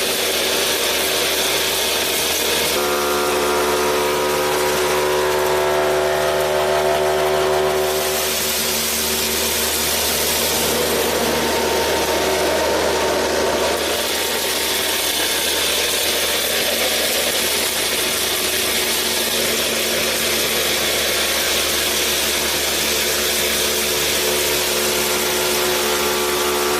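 Small electric motor driving a gear train, running steadily with a whine and a grinding rattle; its tone changes a few times, about 3, 8 and 14 seconds in.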